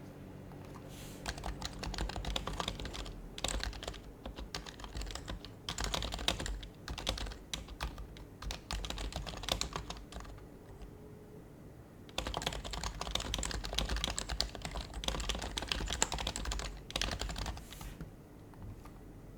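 Typing on an HHKB Professional HYBRID Type-S keyboard with its quiet Topre keys: fast runs of keystrokes with a pause of a second or two in the middle, then another run that stops near the end.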